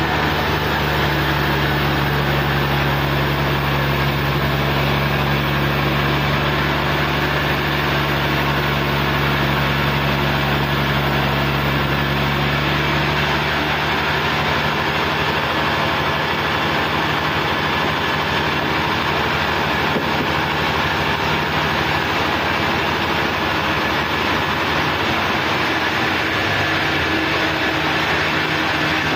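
Sawmill engine running steadily. About halfway through, its low hum fades while a rougher, even machine noise carries on.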